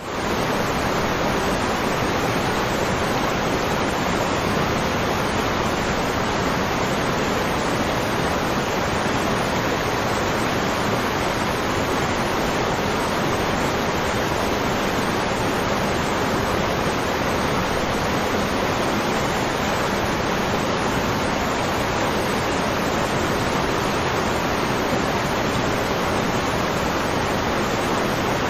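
Waterfall: a steady, unbroken rush of falling water that comes in suddenly at the start.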